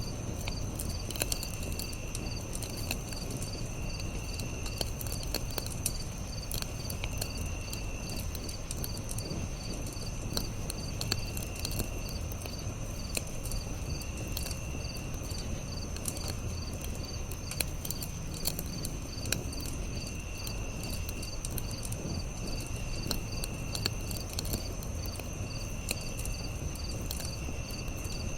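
Crickets and other insects chirping: a steady high trill, a fast even pulsing call, and a lower chirp about a second long every few seconds. A campfire crackles with scattered sharp pops and a low steady rumble.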